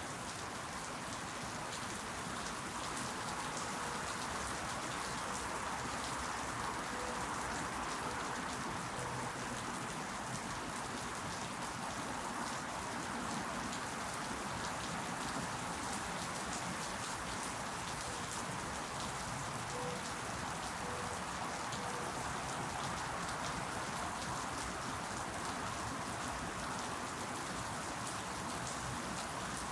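Steady rain falling, with a fine patter of individual drops hitting close by.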